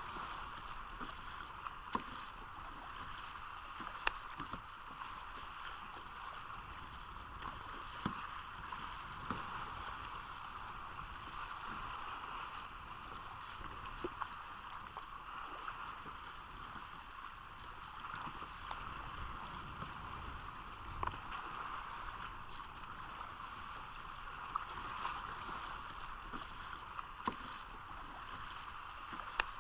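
Water sloshing and splashing around a sea kayak as it is paddled, with scattered sharp knocks every few seconds.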